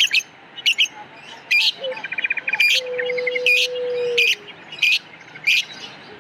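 Lovebirds chirping: sharp, loud chirps repeated every half-second or so, with a fast rattling trill about two seconds in.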